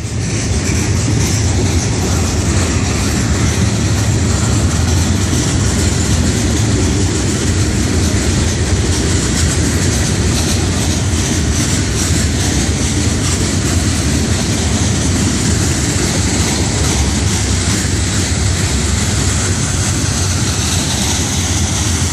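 Florida East Coast Railway freight train of hopper cars rolling past, a steady rumble of steel wheels on rail as the train gathers speed.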